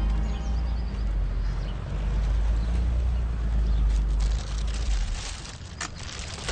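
Porsche 911's air-cooled flat-six engine running with a low, steady rumble as the convertible pulls up, dying away about five seconds in. Scattered light clicks and rustles follow.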